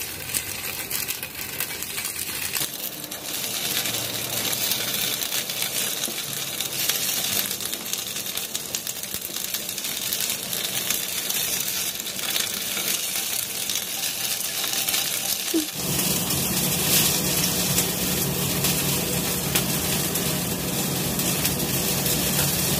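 Chicken satay skewers sizzling in a hot non-stick frying pan. About sixteen seconds in a steady low hum joins the sizzle.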